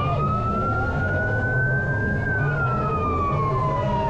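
Emergency vehicle siren wailing: its pitch rises for about two seconds, then falls slowly through the rest, over a low rumble.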